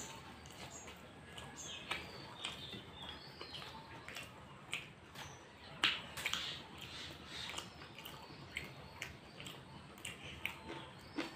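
Close-up mouth sounds of a man eating fried samosa and alur chop: irregular wet chewing clicks and smacks, with a sharper crunch about six seconds in.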